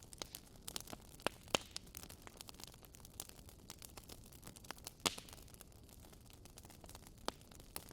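Wood fire in a fireplace crackling: irregular sharp pops and snaps over a faint steady hiss, the loudest snap about five seconds in.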